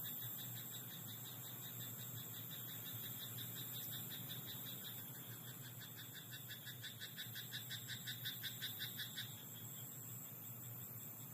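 Frogs calling: rapid trains of pulsed croaks, one call growing louder toward the middle and then stopping abruptly about two seconds before the end, over a steady high-pitched background drone.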